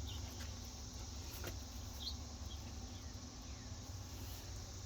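Quiet outdoor ambience: a steady low rumble on the microphone, with two or three faint, short high chirps about two seconds in and a couple of faint clicks.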